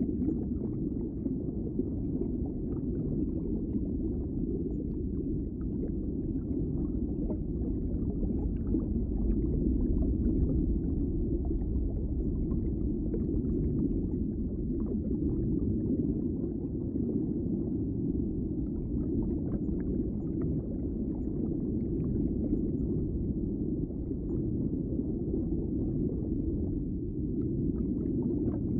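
Underwater ambience: a steady, muffled low rumble of water with faint scattered ticks and crackles.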